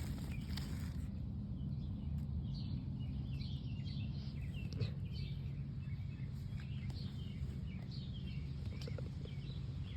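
Small birds chirping in short, scattered high calls over a steady low outdoor rumble.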